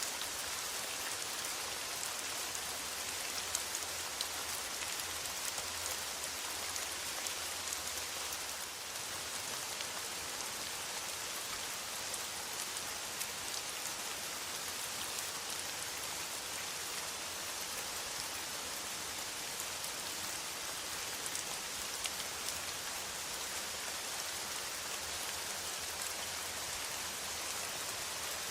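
Steady, even rain with many small drop ticks mixed in.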